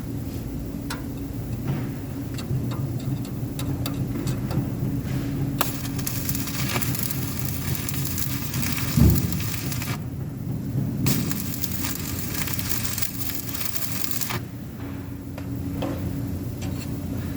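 Stick welding: the electrode arc sizzling in two runs of about four and three seconds, over a steady machine hum. A single low thump sounds about nine seconds in.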